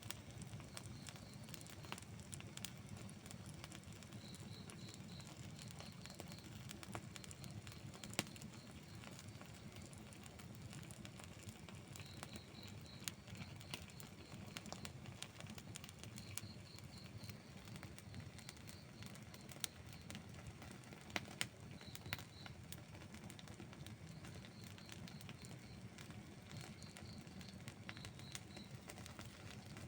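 Outdoor wood campfire burning, with a steady low rumble and scattered crackles and sharp pops. The loudest pops come about eight seconds in and around twenty-one seconds. Faint high chirps come in short runs of three or four throughout.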